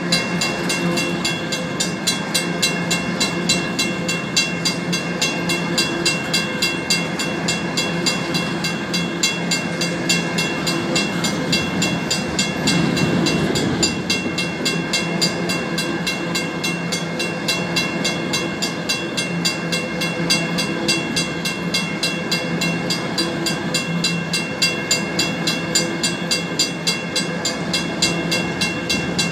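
Empty rock hopper cars of a freight train rolling past a grade crossing, with wheels running over the rail joints, while the crossing's WCH mechanical bell rings in rapid, even strokes. The low rumble of the cars swells briefly about halfway through.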